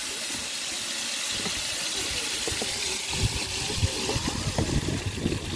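Chopped onions and tomatoes sizzling steadily in hot oil in a large aluminium cooking pot, with a low, uneven rumble building from about three seconds in.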